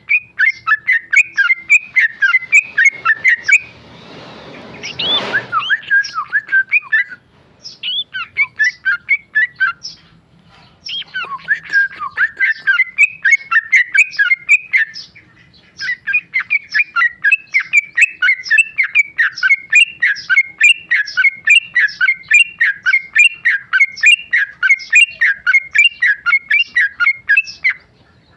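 Yellow-vented bulbul (trucukan) singing a fast, continuous run of chirping notes, several a second, with a few short breaks. About four seconds in, a brief rushing noise sounds under the song.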